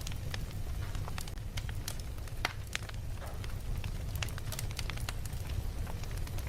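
Wood fire crackling: a steady low rumble of flames with frequent sharp pops and snaps scattered irregularly, one louder pop about two and a half seconds in.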